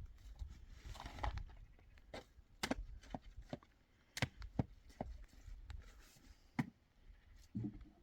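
A brief rustling scrape about a second in, then a series of sharp, irregular knocks and clicks.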